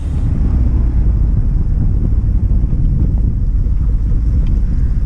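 Moving car: a loud, steady low rumble with wind buffeting the microphone.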